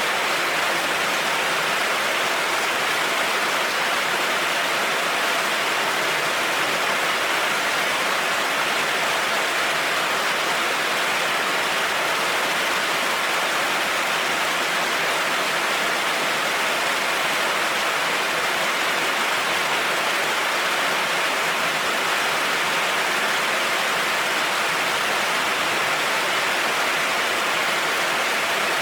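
Heavy rain falling steadily, an even hiss with no breaks or thunder claps.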